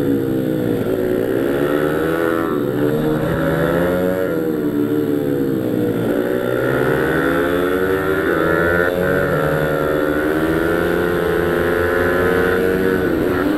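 Pit bike's small single-cylinder engine revving hard under load. Its pitch climbs and drops again and again as the bike accelerates out of corners and shuts off for the next ones.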